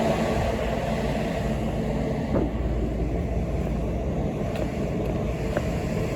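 School bus running along the road, heard from inside the cabin: a steady low engine and road rumble with a few light rattles.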